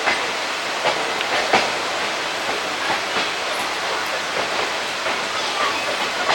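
Indian Railways ICF passenger coach running on the track: a steady rumble and hiss with irregular sharp clicks of the wheels crossing rail joints.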